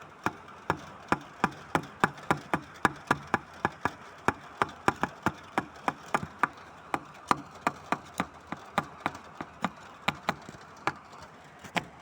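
Drops of rainwater dripping onto a hard surface, about three sharp taps a second of varying loudness, over a steady soft hiss of rain.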